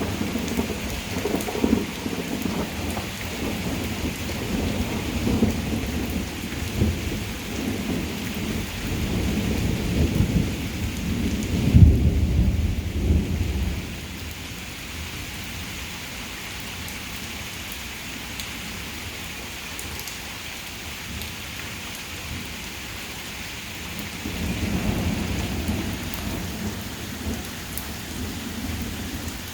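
Heavy rain pouring steadily while thunder rumbles, building to its loudest about twelve seconds in and fading away soon after. A softer roll of thunder comes a few seconds before the end.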